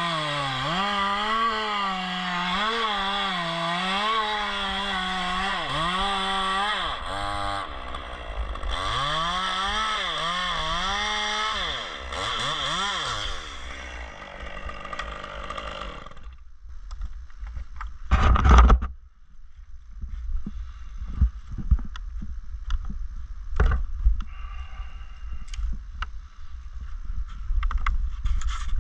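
Chainsaw running and cutting into dead fir wood, its engine pitch rising and falling under load for about thirteen seconds before it winds down. After that there is one heavy thud about eighteen seconds in, then scattered knocks over a low rumble.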